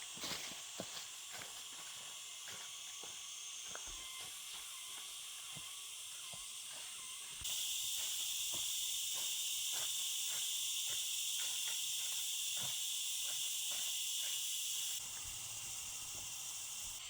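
A steady high-pitched hiss with scattered faint clicks. About seven seconds in, the hiss suddenly grows louder for about seven seconds, then drops back just as suddenly.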